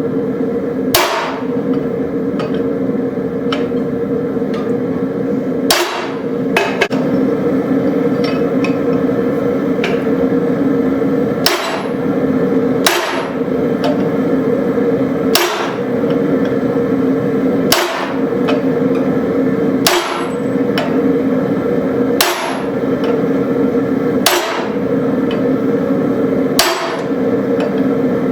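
Hammer striking a tapered punch to sink eye sockets into a railroad spike, single sharp blows mostly about two seconds apart, with a longer pause early on, over a steady hum.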